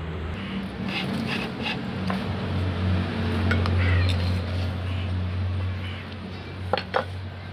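People eating a meal off plates: scattered light clicks and clinks of food and dishware, with a pair of sharper clicks near the end, over a steady low hum.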